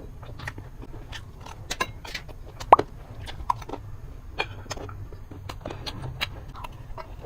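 A person chewing food close to the microphone, with scattered wet mouth clicks and smacks and one sharper click nearly three seconds in.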